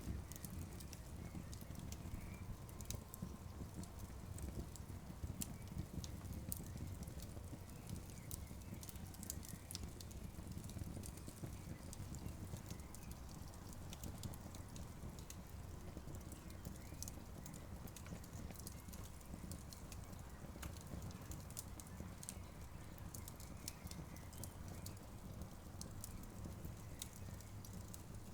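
Wood campfire crackling: irregular sharp pops and snaps over a steady low rumble from the burning fire.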